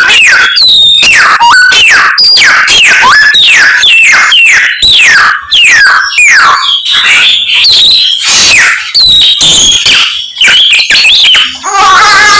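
A samyong songbird singing a loud series of whistled notes that each slide down in pitch, about two a second. Near the end it changes to denser, more varied warbling, part of a song packed with mimicked calls of other birds.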